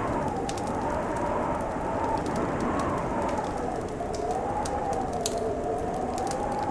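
Wood fire crackling with frequent sharp pops, over a howling wind whose pitch slowly rises and falls.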